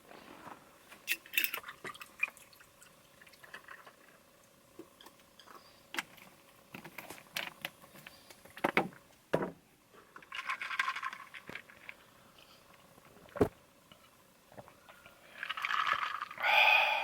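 Camp cooking and drink handling: scattered knocks, clinks and scrapes of cookware and utensils, with short bursts of liquid being poured, the loudest near the end.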